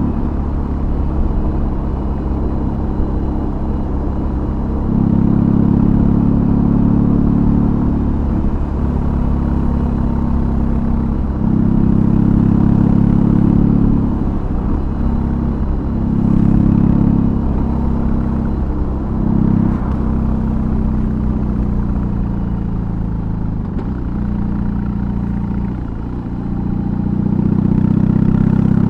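BMW R18's 1802 cc air/oil-cooled boxer twin running through a custom exhaust while riding, a deep low note that swells as the throttle opens and eases off again, repeatedly, about every two to three seconds.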